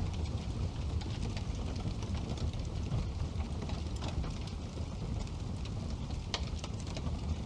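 Wood fire burning in a fireplace: a steady low rumble of the flames with frequent sharp crackles and pops, one louder pop about six and a half seconds in.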